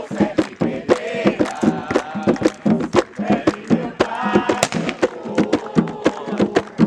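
A group of voices singing a chant for the orixá Xangô, over sharp, fast percussion strikes of several beats a second.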